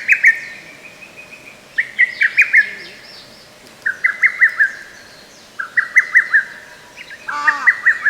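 Lesser cuckoo (hototogisu) singing its clipped, rapid five-note phrase, repeated about every two seconds. Near the end another bird's lower, arched notes come in over it.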